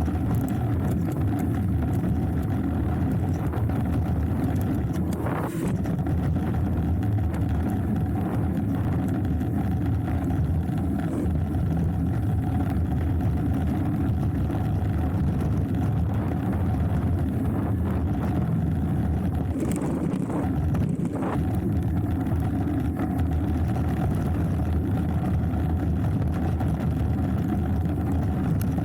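Steady low rumble of wind buffeting the camera microphone and knobby tyres running over a dirt trail as a hardtail mountain bike descends, with a few sharp knocks and rattles from the bike over bumps.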